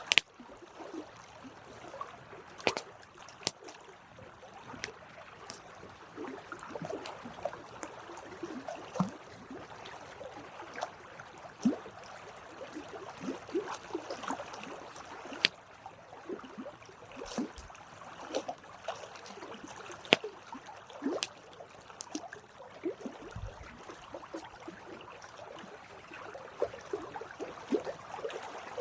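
Campfire burning: wood crackling steadily, with irregular sharp pops every few seconds.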